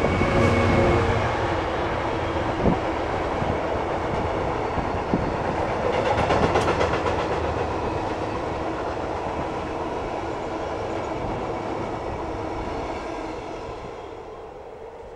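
A freight train passing close by. The diesel locomotive's engine is heard first, then the rolling rumble of a long string of tank wagons with a few clicks of wheels over rail joints. The noise fades toward the end as the last wagons go by.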